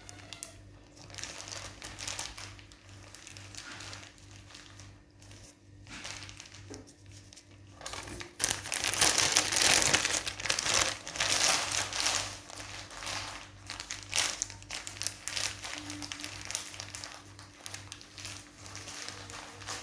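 Hands working a thick deep-conditioning paste through hair: irregular rustling, crinkling and squishing strokes, busiest and loudest for a few seconds in the middle.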